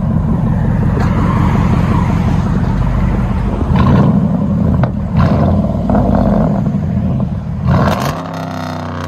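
2013 Ram 1500's 5.7-litre Hemi V8 through a straight-piped 2-inch true dual exhaust, running loud at idle and revved in several short blips, settling back to a lower idle near the end.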